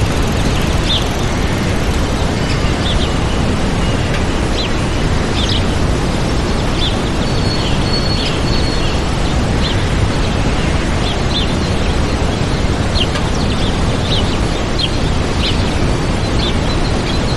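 Waterfall's steady rush of falling water, with small birds giving short high chirps throughout.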